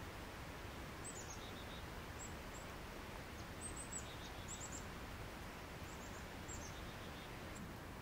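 Faint, very high-pitched chirps of small birds, a few short notes at a time, repeating every second or so over a steady low outdoor background noise.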